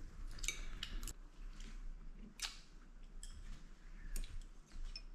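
Scattered light clinks and taps of eating utensils against plates and dishes during a meal, about half a dozen short, ringing clicks spread irregularly.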